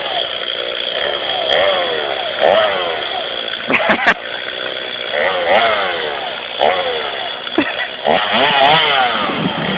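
Two-stroke chainsaw engine running and being revved up and down over and over, its pitch rising and falling with each blip of the throttle, with a couple of sharp clicks about four seconds in.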